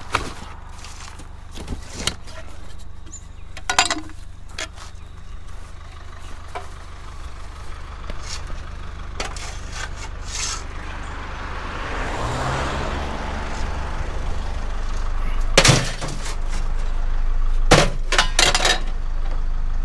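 Van engine running with road noise as it drives, with scattered clunks and rattles; the engine pitch rises about twelve seconds in and the sound grows louder toward the end.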